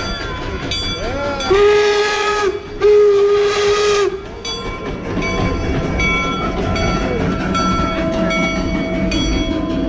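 Train whistle sounding two long blasts of about a second each, over the rumble of a running train, with background music.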